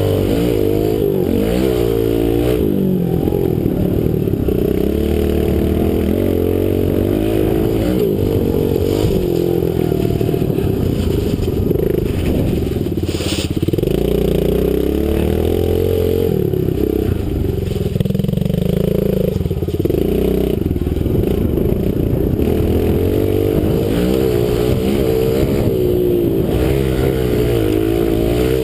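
Kawasaki KLX110 pit bike's small air-cooled four-stroke single-cylinder engine revving up and down again and again as it is ridden around a track. There is one sharp click about 13 seconds in.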